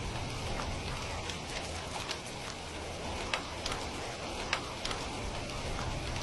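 Steady rain with a crackling log fire: irregular sharp pops and snaps over an even hiss, the loudest snaps about three and a half and four and a half seconds in.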